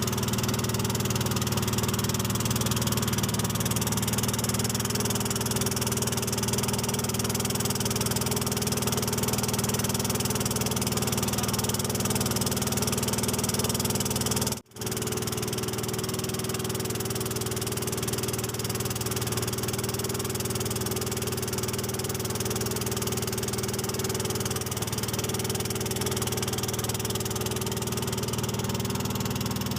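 Small boat's engine running steadily at a constant speed, with a brief dropout about halfway through.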